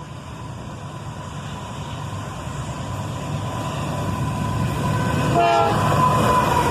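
Freight train led by a pair of GE AC44CW locomotives approaching, its rumble growing steadily louder, with a brief blast of the locomotive horn about five and a half seconds in, the start of a horn salute from the engineer.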